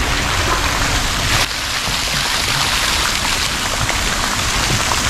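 Water gushing steadily from a water outlet, a constant rain-like rush; it drops a little in level about a second and a half in.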